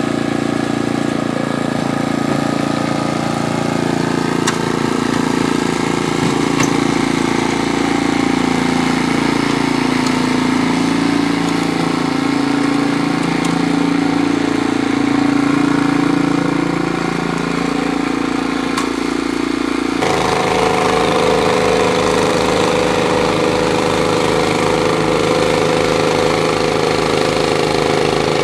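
An engine running steadily; its note changes abruptly about twenty seconds in.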